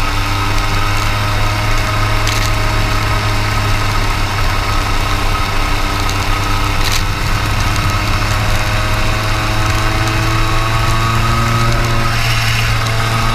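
Racing kart engine running at speed, its pitch slowly falling and rising as the revs change, over a steady low drone, with a couple of short clicks.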